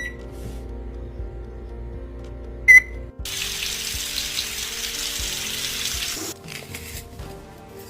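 Running water, an even hiss lasting about three seconds that stops abruptly, over background music; just before it a single short, sharp, high-pitched sound.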